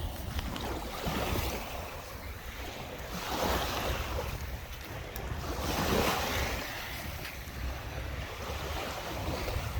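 Lake Michigan waves washing onto the beach, swelling twice, about three and a half and six seconds in, with wind rumbling on the microphone throughout.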